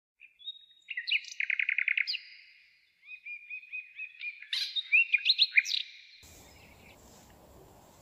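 Birdsong: clear, high chirps and whistled notes, with a quick trill of rapid repeated notes about a second and a half in. The birdsong stops at about six seconds, leaving only a faint hiss of outdoor background.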